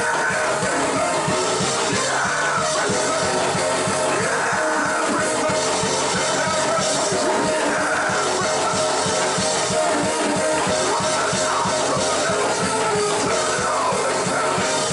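Band music with drums and guitar playing at a steady level.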